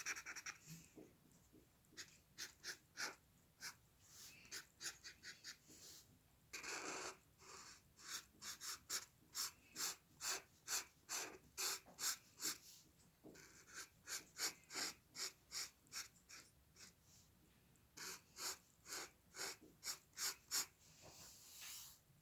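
A drawing tool scratching on paper in quick repeated strokes, about two a second, in runs broken by short pauses, with one longer stroke about seven seconds in.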